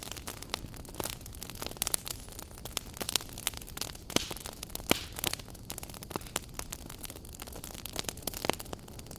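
Wood fire in a fireplace crackling, with frequent irregular snaps and a few louder pops over a low steady hiss of flame.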